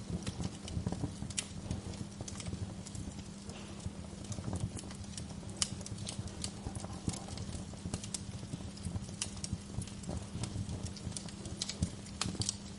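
Wood fire crackling: irregular sharp pops and snaps, a few louder ones standing out, over a steady low rumble.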